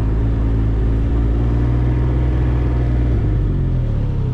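Can-Am Ryker 900's three-cylinder Rotax engine running at low speed, its pitch dropping about three seconds in as the bike slows.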